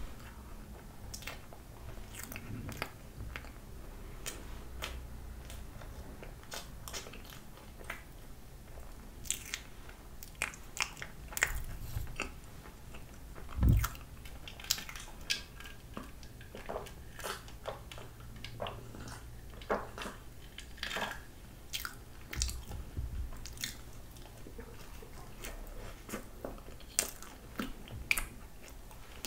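Close-miked eating: soft cream-filled pandoro bread being bitten and chewed, with wet, irregular mouth clicks and smacks throughout. A single louder thump comes about 14 seconds in.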